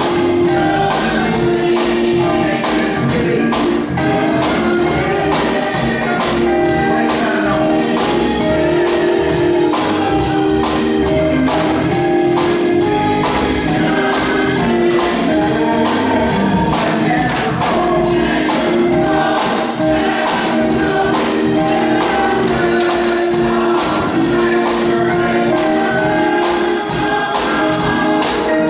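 Gospel music: a choir singing over a steady beat, with a tambourine shaken and struck throughout.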